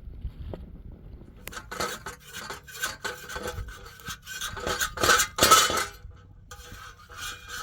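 Metal cookware and utensils clinking and scraping: a quick run of strikes with a ringing metallic tone begins about a second and a half in, loudest around five seconds.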